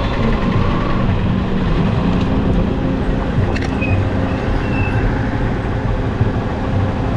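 Motorcycle engine running under way, with heavy wind and road noise. Its pitch drops over the first couple of seconds, then climbs about two seconds in and holds steady.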